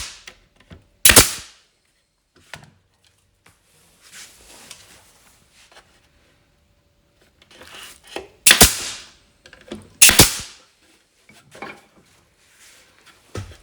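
Sharp, loud cracks of nails being driven into the toolbox's wooden frame: one about a second in, then a close pair and another about two seconds later, with faint handling sounds between.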